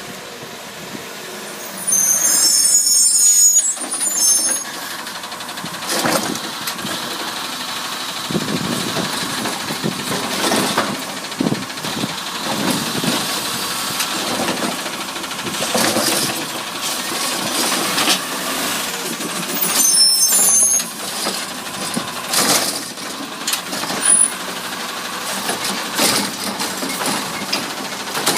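CNG-fuelled Autocar ACX garbage truck with a Heil Rapid Rail side loader running, with knocks and clanks. Sharp bursts of air hiss come about two seconds in and again around twenty seconds in.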